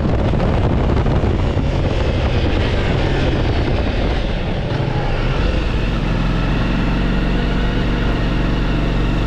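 Ducati Multistrada V4 S motorcycle running on the road, its V4 engine heard under wind and road noise on the mic. From about halfway through the engine settles into a steadier low drone.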